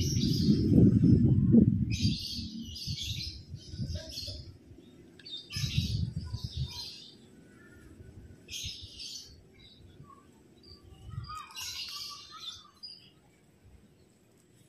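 Small birds chirping in short calls every one to three seconds. Under them is a low rumbling noise, loudest in the first two seconds and again around six seconds in.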